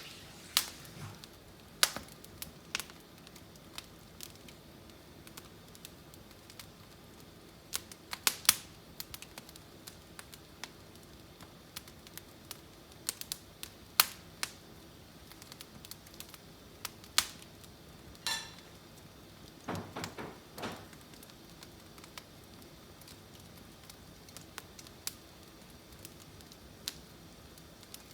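Firewood burning in a fireplace, crackling with irregular sharp pops, some in quick clusters, with a brief hiss about two-thirds of the way through.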